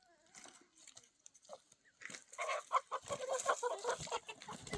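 Chickens clucking: a busy run of short calls that starts about two seconds in, after a near-quiet start.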